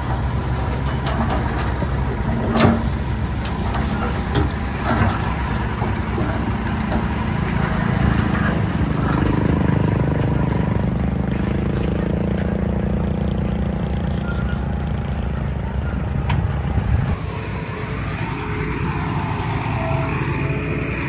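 Diesel engines of a bulldozer and dump trucks working, with scattered clanks and knocks in the first few seconds. The engine note swells in the middle, and near the end an engine's pitch falls and rises again.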